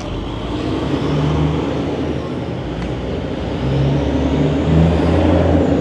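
A car engine running at low speed, its low hum shifting in pitch a few times, over steady outdoor background noise.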